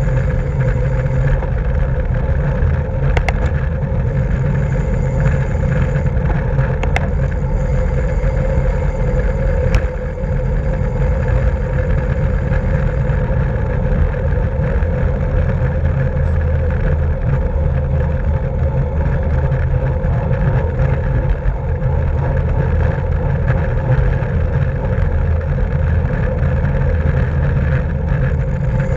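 Steady wind rush and road rumble on a camera moving with a racing bicycle at speed, with a few sharp clicks in the first ten seconds.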